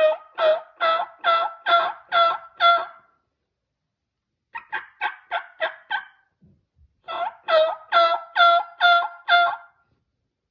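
Turkey yelping: three runs of two-tone yelps, the first and last of about seven notes at a little over two a second, and a quicker run of shorter notes between them.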